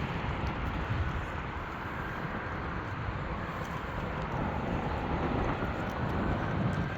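Wind blowing across the microphone: a steady, noisy rush, heaviest in the low end.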